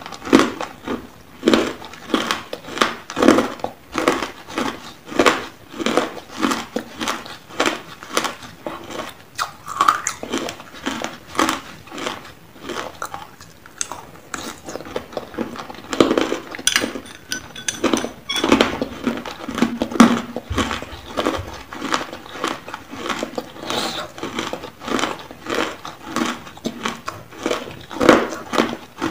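Close-up eating sounds: a person biting and chewing a hard, crunchy food, with sharp crunches coming in a steady run of about one to two a second.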